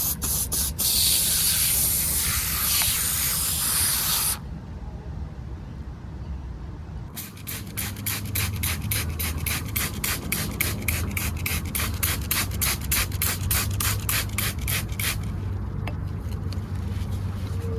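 A spray hissing steadily for about four seconds. After a short pause comes a small brush scrubbing a miniature car's body in quick, even strokes, about five a second, for some eight seconds.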